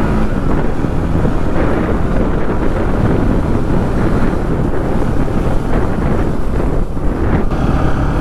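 Wind buffeting the microphone of a rider on a moving motorcycle: a loud, steady rush with road noise beneath it.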